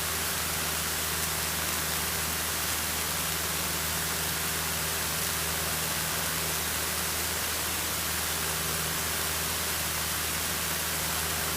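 Steady in-flight noise of a Cessna 152: an even hiss with a constant low drone from the engine and propeller, unchanging throughout.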